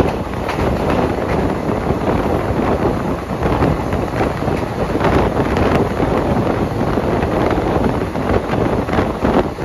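Passenger train running at speed: a steady rumble of wheels on the track, with heavy wind buffeting the microphone.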